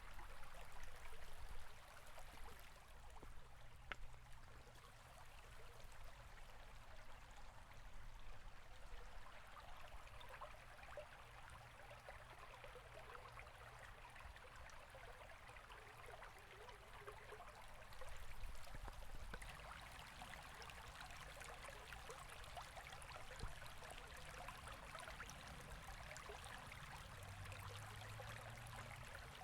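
A river or stream flowing steadily, a faint, even rush of running water.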